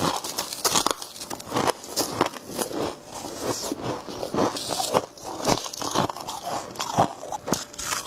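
Close-up biting and chewing of humidifier frost: irregular crisp crunches and crackles, several a second.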